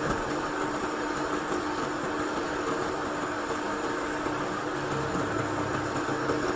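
A machine running steadily with a constant hum and no change in speed or load.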